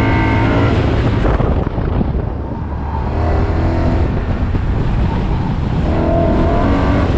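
BMW M3's S65 V8 under hard acceleration and lifts on an autocross course: the revs climb at the start, drop about two seconds in, then pull up again twice.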